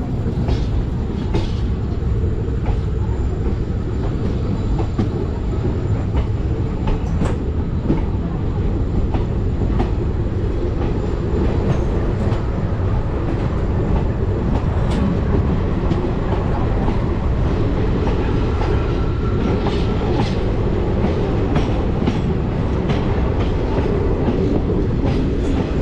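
Passenger train running on the rails, a steady rumble of wheels and coach with scattered clicks and knocks from the track.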